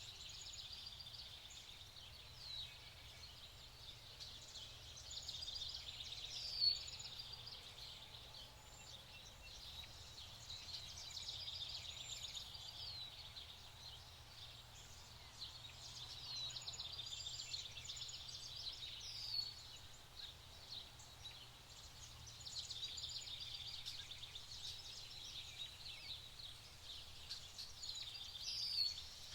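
Several small songbirds chirping and singing together in high, overlapping trills and short notes that swell and fade in waves. A few sharp, louder chirps stand out, the loudest about a quarter of the way in.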